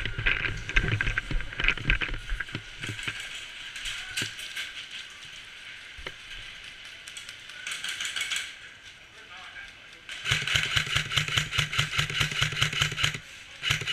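Airsoft gun firing in rapid full-auto bursts, a rattle of shots over a steady motor hum: one burst at the start and a long one of about three seconds near the end that starts and stops abruptly.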